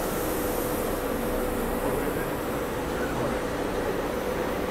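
SEPTA Regional Rail electric train running: a steady rumble with a steady mid-pitched hum over it.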